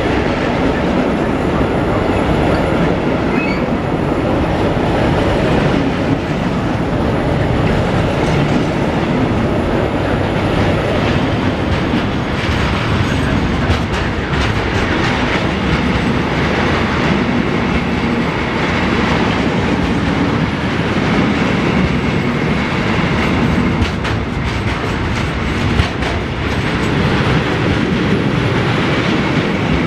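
Freight train passing close by: a loud, steady rumble of wagons rolling over the rails, with scattered clicks of wheels over rail joints.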